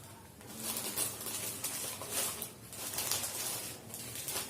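Several short bursts of crisp rustling and crunching as kuzhal pori, a dry puffed-corn tube snack, is handled.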